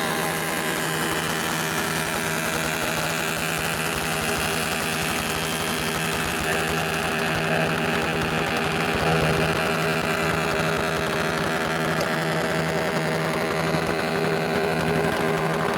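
Motorcycle engine running at a steady pitch, getting slightly louder about eight to nine seconds in.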